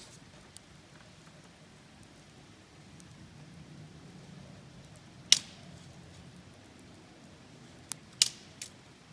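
Wood campfire burning with faint crackling and a few sharp pops from the burning wood: one loud pop about five seconds in, then three more close together near the end.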